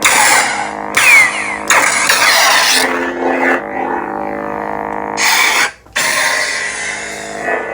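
Lightsaber sound font playing from a custom saber's sound board: a steady electric hum broken by loud swing and clash effects, three in the first two seconds and another about five seconds in. The sound cuts out briefly just before six seconds, then the hum resumes.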